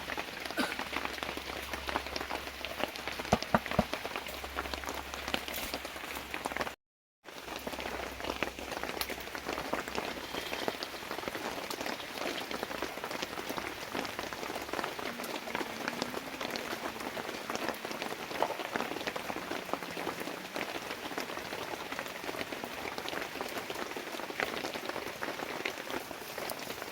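Heavy rain falling, a dense, steady patter of drops. The sound drops out briefly about seven seconds in.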